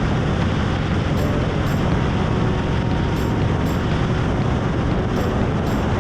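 Harley-Davidson V-twin running steadily at road speed, its rumble mixed with heavy wind rush over the bike-mounted camera's microphone.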